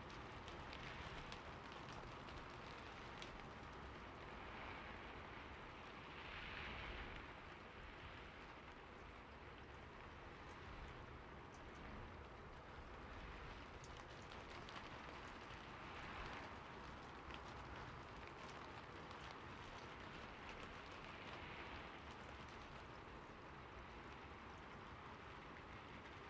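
Steady rain falling on a roof: an even soft hiss full of small drop ticks, swelling gently a few times.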